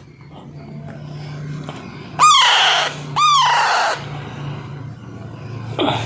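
Alexandrine parakeet chick giving harsh squawks: two loud calls about two and three seconds in, and a shorter one near the end. A low steady hum runs underneath.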